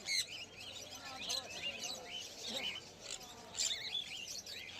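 Many small caged birds chirping together, with short high calls overlapping one another throughout.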